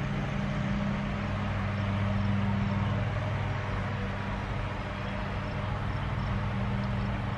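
Steady low hum of a car's engine idling and its ventilation running, heard from inside the cabin.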